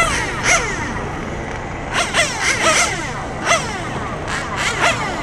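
Radio-controlled superbike motors whining in a series of falling sweeps, five or six in a row, as the bikes come off the throttle.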